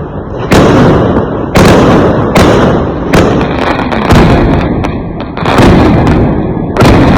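Fireworks going off: a rapid series of loud bangs, roughly one a second, each trailing off into a rolling rumble and crackle.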